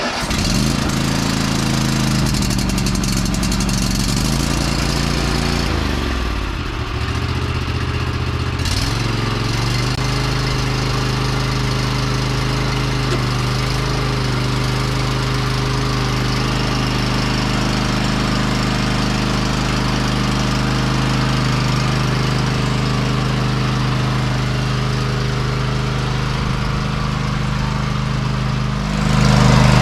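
Cub Cadet LT50 riding lawn mower engine starting up, its pitch rising and dipping over the first several seconds, then settling into a steady run. It gets louder near the end.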